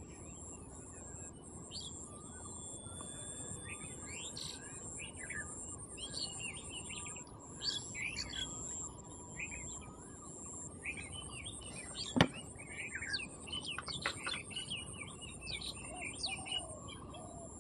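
Birds chirping in short, scattered calls over a steady high-pitched drone, with one sharp click about twelve seconds in.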